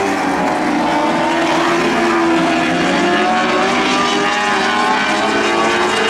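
A pack of Lightning sprint cars racing on a dirt track: several high-revving motorcycle engines at once, their pitches rising and falling as the cars pass.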